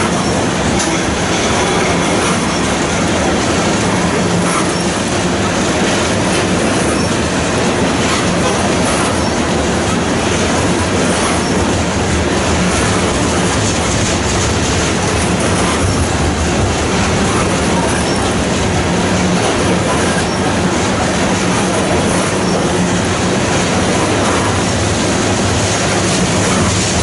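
Coal cars of a slow-moving freight train rolling past: steady, loud noise of steel wheels running on rail, with faint clicks now and then.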